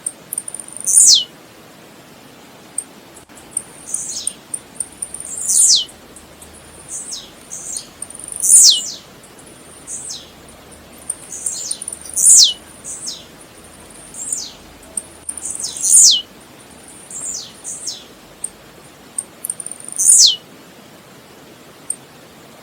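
Blue-black grassquit (tiziu) singing. It gives a sharp, high call that sweeps steeply down in pitch, repeated about every three to four seconds, with fainter calls and short high ticks in between.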